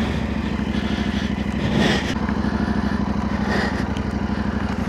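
Yamaha Ténéré 700's parallel-twin engine idling steadily, with an even, unchanging beat.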